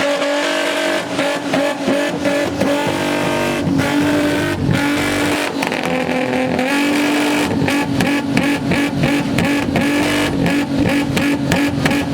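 Tuned car engine held against a two-step launch limiter: a steady, high engine note at one pitch, dipping briefly a few times, with a rapid, irregular string of exhaust pops and bangs that grows denser in the second half.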